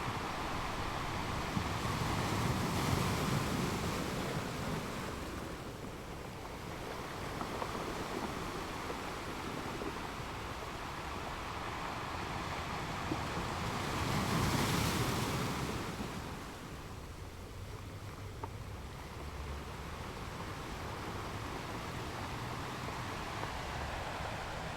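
Sea waves surging and washing in as a steady rushing, swelling to a louder peak twice: about 3 seconds in, and again a little past halfway.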